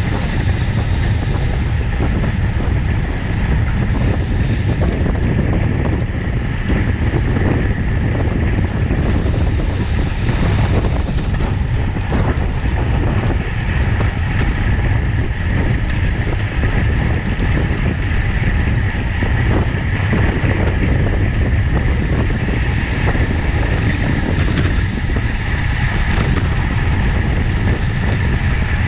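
Wind rushing over the microphone of a racing cyclist's camera at speed: a loud, steady rumbling roar with no breaks.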